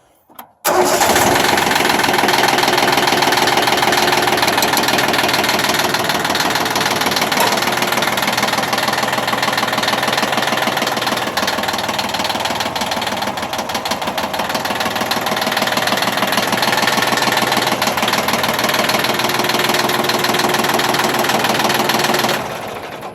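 Yanmar YM1510 compact tractor's 3-cylinder diesel engine starting about a second in and then running steadily. Its level drops shortly before the end.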